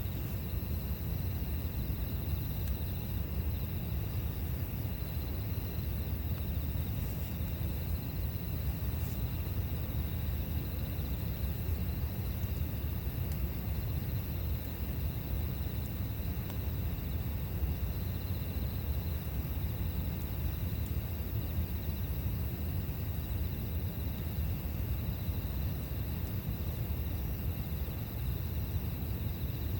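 Campfire burning with a steady low rumble and a few faint, scattered crackles, while insects keep up a steady high chirping.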